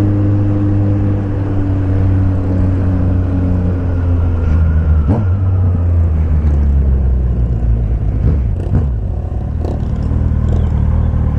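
Suzuki Bandit 1250's inline-four engine running steadily through a straight pipe with no muffler, with a couple of brief changes in pitch partway through.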